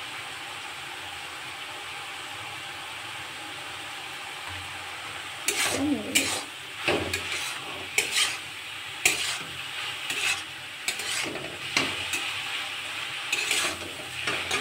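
Brinjal and dried shrimp sizzling in a kadai: a steady sizzle for about the first five seconds, then a plastic spatula stirring and scraping the pan in quick, irregular strokes over the sizzle.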